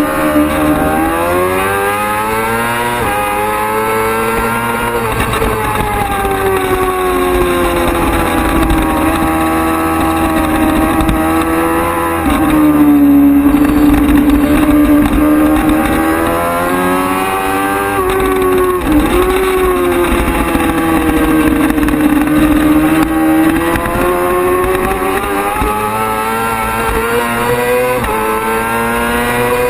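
Race-prepared sport motorcycle engine held at high revs, its pitch climbing and falling over and over as it accelerates, shifts gear and slows for corners. A steady rush of wind runs underneath.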